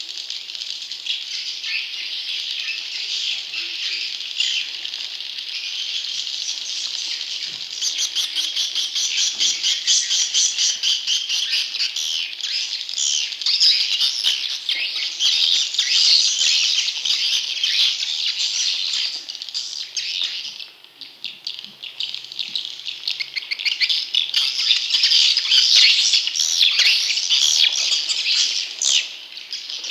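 Recorded calls of edible-nest swiftlet chicks: a dense, continuous chatter of many high chirps and rapid clicks, thinning briefly about two-thirds of the way through. This is the lure sound played in swiftlet-farming houses to attract wild young swiftlets.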